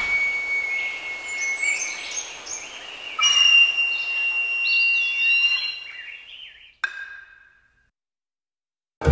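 Birds calling in whistled notes, some held and some gliding up and down in pitch. A sharp click comes about seven seconds in, the calls fade to silence, and a plucked-string note starts right at the end.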